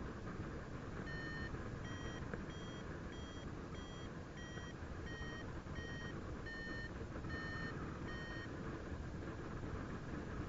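Paragliding variometer beeping: about a dozen short beeps, roughly one every 0.7 s, their pitch shifting slightly from beep to beep, the vario's signal that the glider is climbing in lift. Under it runs steady wind rush on the microphone in flight.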